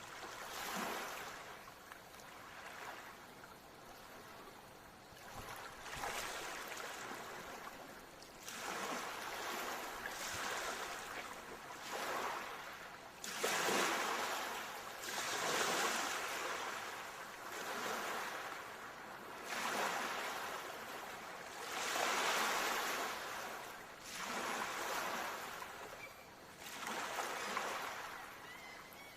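Ocean waves breaking and washing in, one swell after another every two or three seconds, each rising and falling away.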